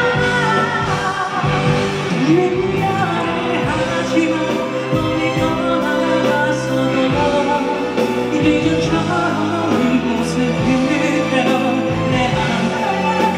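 Live pop music: a singer with band accompaniment, with long held notes.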